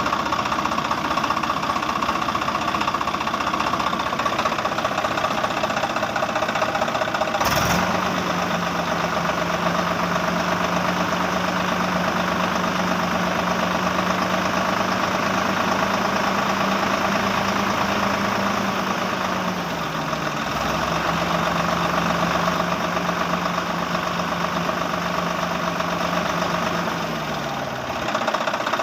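A small motor running steadily with a rattly, engine-like sound. About seven seconds in, a click and a steady hum join it; the hum sags briefly past the middle and fades out near the end.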